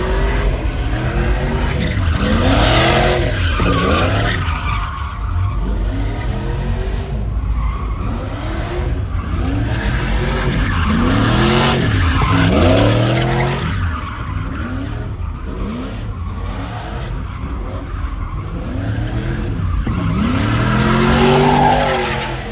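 A truck engine revving hard, its pitch climbing and dropping again and again, with tyres squealing, as in a burnout.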